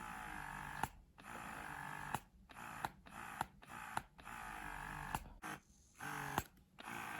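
Bellababy wearable electric breast pump running in variation mode at level 3: the motor hums in suction pulls of uneven length, each cut off by a sharp click, with short pauses between.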